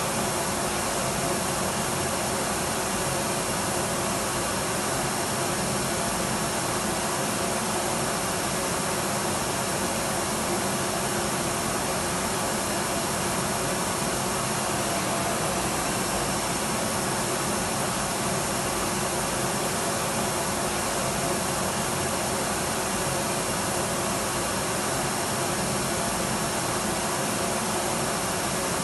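Electric vacuum cleaner running continuously at a steady pitch and level, an even whooshing hum with no change.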